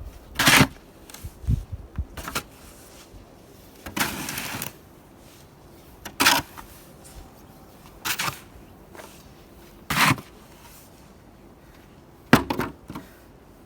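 Snow shovel working through deep snow: a scrape or crunch of snow about every two seconds, one drawn out a little longer about four seconds in and a sharper hit near the end.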